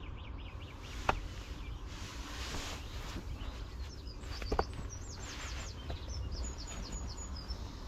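Outdoor morning ambience: a steady low rumble with a songbird singing a quick run of short, high chirps in the second half, and a couple of faint knocks.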